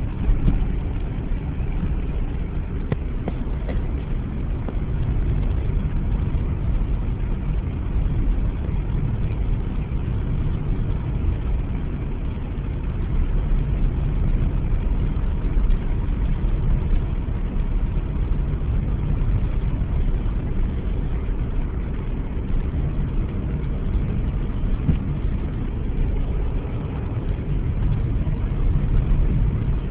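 Inside a car driving on snow-covered roads: a steady low rumble of engine and tyres, unbroken throughout.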